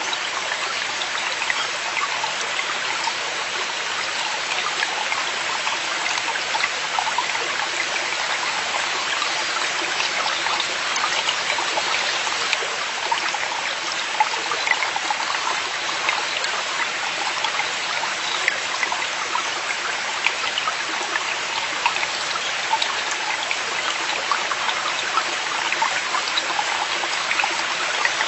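Mountain stream flowing steadily over rocks: a constant rushing babble sprinkled with small splashes and droplets.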